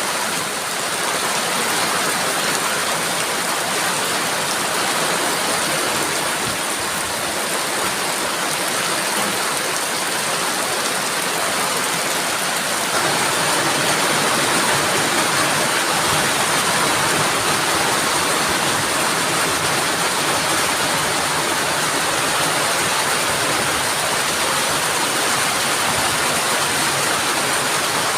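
Heavy rain pouring steadily in a dense, even hiss, with strong wind; it grows slightly louder about halfway through.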